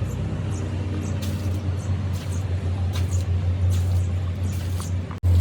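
A steady low machine hum, like an engine or motor running, with short hisses roughly once a second. The sound drops out twice, very briefly, near the end, then comes back louder.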